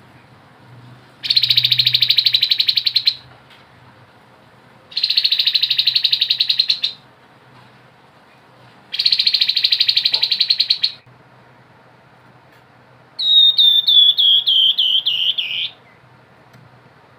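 Grey-headed babbler (tepus kepala abu) singing: three rapid buzzing trills, each about two seconds long with short gaps between, then a quick series of about ten whistled notes that fall in pitch.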